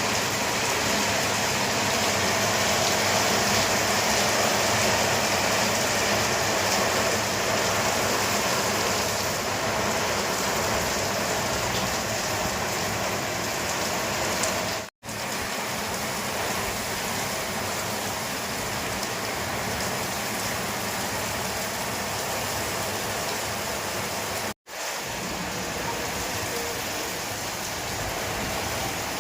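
Rain pouring steadily in a windy storm, a dense even hiss, with the sound cutting out for an instant twice, about halfway and again near the end.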